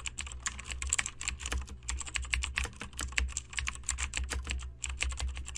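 Fast typing on a computer keyboard, a rapid irregular run of key clicks over a steady low hum, with a brief lull about four and a half seconds in.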